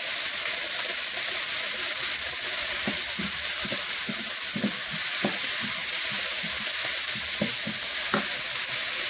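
Onions frying in hot oil in a wok on high heat, a steady loud sizzle, with a few short scrapes and knocks of a utensil stirring them.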